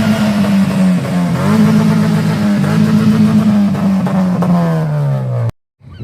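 A car engine revving, held at high revs with brief dips and swells. It falls away about four and a half seconds in and cuts off abruptly near the end.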